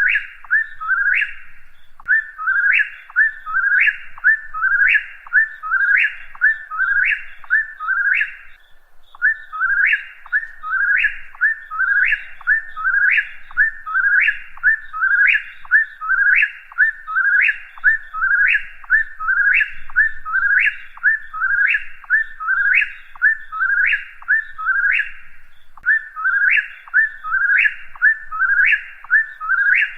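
Whip-poor-will singing its whistled 'whip-poor-will' song over and over, about once a second, each phrase ending in a sharp rising note, with brief breaks a few seconds apart.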